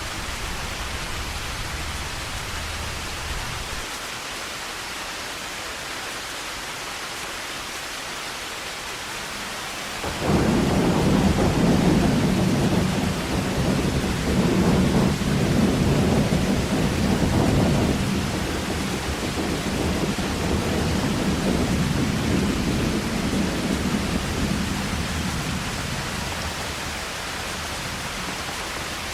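Heavy rain falling steadily, with a long roll of thunder breaking in suddenly about ten seconds in, rumbling loudly in pulses for around fifteen seconds and then slowly dying away under the rain.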